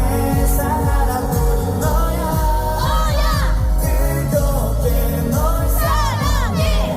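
A live pop song: a male singer's voice, amplified, over a backing track with a steady beat.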